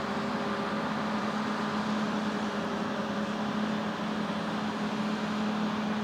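Harvest machinery running steadily: a diesel-driven farm machine with an even, unchanging drone that holds one pitch throughout.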